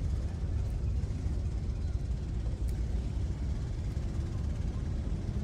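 Steady low rumbling noise without a clear pitch.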